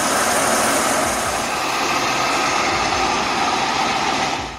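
A firewood machine's engine running steadily under load, a dense, even mechanical noise that cuts off suddenly at the end.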